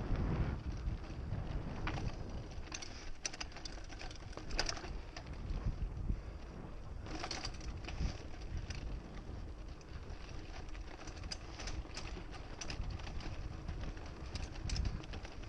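Mountain bike being ridden along a dirt trail: a steady low rumble of wind on the microphone and tyres on the ground, with scattered sharp clicks and rattles from the bike.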